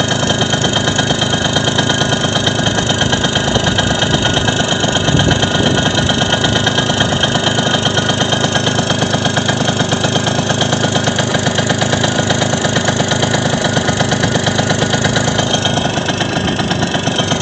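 ZiD Pilot moped's small two-stroke single-cylinder engine running steadily through a Verkhovyna moped muffler. It is being run in after a rebuild.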